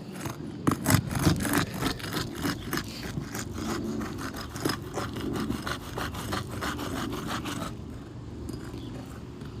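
A roofing snake being worked back and forth under asphalt shingles, giving rapid repeated scraping, rasping strokes as the shingles are pried loose; the strokes stop about two seconds before the end.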